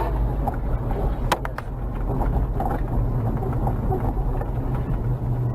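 Car driving: a steady low rumble of engine and road noise, with three quick clicks about a second and a half in.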